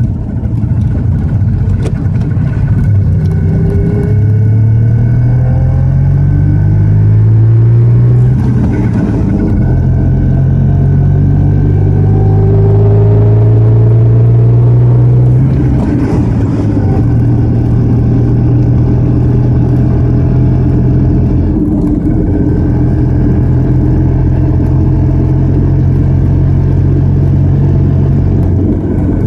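Messerschmitt microcar's small two-stroke engine heard from on board while driving. The engine note climbs twice, dropping back at each change up a gear, then holds steady at cruising speed for the second half.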